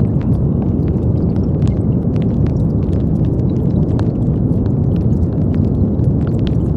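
Steady brown noise: a deep, even rush weighted toward the low end, with faint scattered ticks above it.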